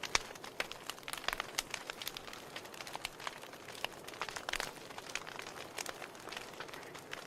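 Wood fire burning in a fireplace: a soft hiss with many irregular sharp crackles and pops from the burning logs.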